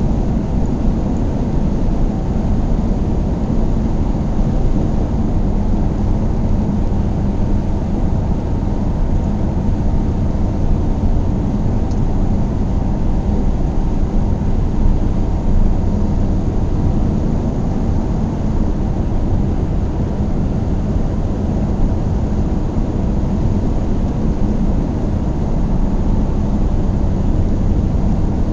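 A car driving at a steady speed: an unbroken low rumble of engine and road noise.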